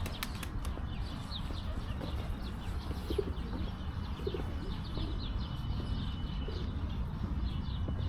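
Small songbirds chirping, many short high chirps repeating throughout, over a steady low background rumble.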